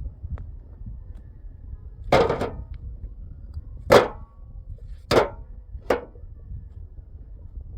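Four sharp knocks at uneven intervals, each with a brief ringing tail, over a low steady rumble.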